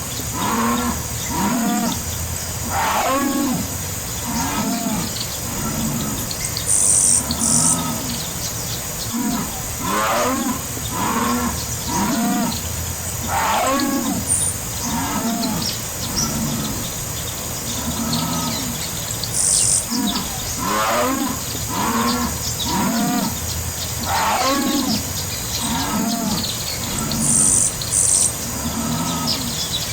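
Jaguar calling: a long run of hoarse, grunting calls, about one a second, the jaguar's rasping 'sawing' roar.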